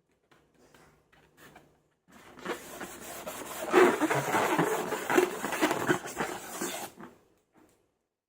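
Slime being squeezed and squished, a wet crackling squelch with irregular pops. It starts about two seconds in and cuts off suddenly near seven seconds.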